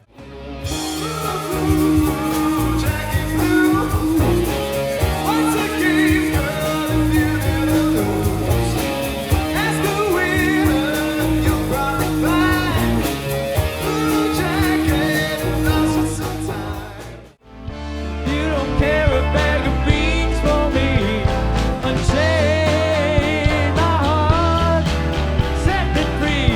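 A rock band playing live: two separate song excerpts, with a sudden cut to silence about 17 seconds in between them. The second excerpt is heavier in the bass.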